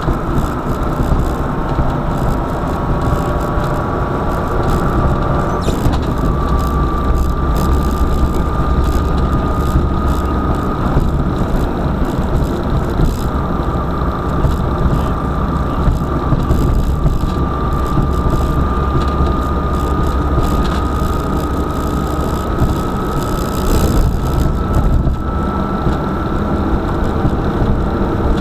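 A car driving, with a steady low engine and road rumble. A thin whine slowly climbs in pitch over it, and short clicks come through now and then.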